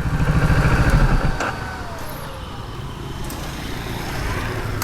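Motorcycle engine running, stationary after parking: the rumble is strongest in the first second or so, then drops to a quieter steady running sound with faint street traffic behind it.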